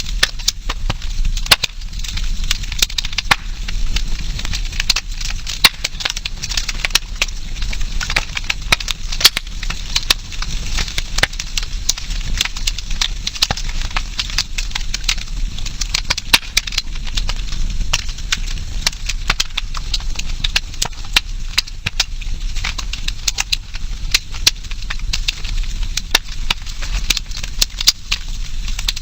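Campfire crackling: burning wood giving off dense, irregular sharp pops and snaps.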